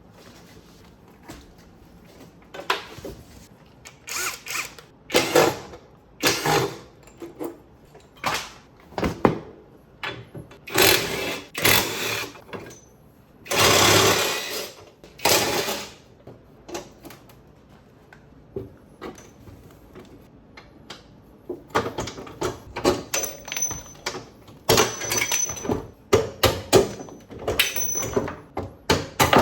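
Tools working on a Hyosung GV250 motorcycle as it is taken apart: irregular clanks and clicks, with short bursts of a power tool, the longest about halfway through.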